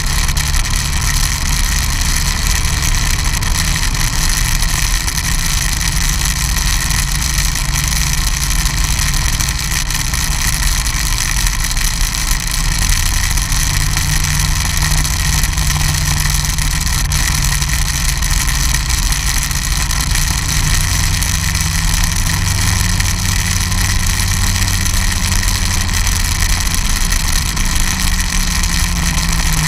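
Snowmobile engine running steadily, its note rising in the second half and dropping near the end, with a constant high hiss over it.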